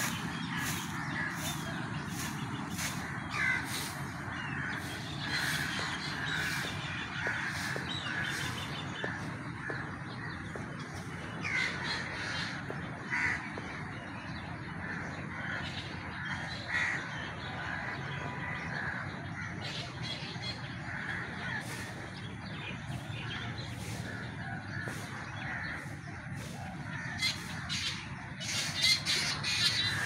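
Birds calling, many short calls repeating and overlapping, over a steady low background rumble.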